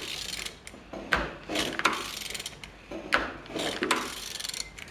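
Ratchet wrench clicking in repeated strokes, about one a second, as a Nissan YD22DDTi diesel engine is turned over by hand; the engine turns freely.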